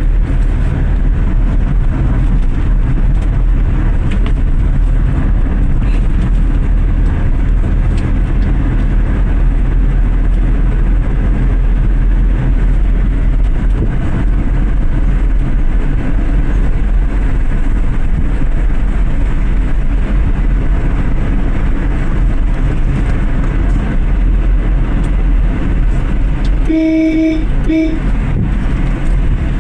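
Steady low rumble of a Maruti Suzuki Swift VXI hatchback being driven: engine and road noise. A horn sounds in two short beeps near the end.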